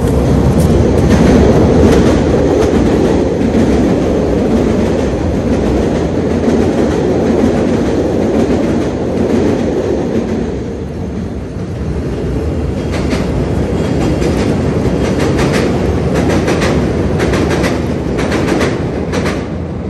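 Chicago rapid-transit train passing close by: a loud, steady rumble that eases off in the middle. It is followed by a run of clicking and clacking of wheels over the rails in the second half, which fades near the end.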